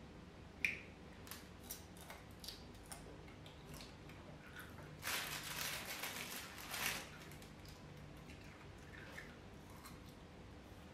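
Quiet chewing and handling noises: scattered soft clicks and smacks, with a louder rustling hiss lasting about two seconds near the middle.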